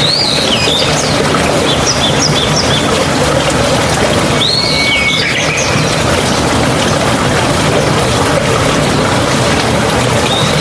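Steady rush of running water, with birds calling over it a few times: a short rising-and-falling call at the start, a quick series of repeated notes about two seconds in, and another call about four and a half seconds in.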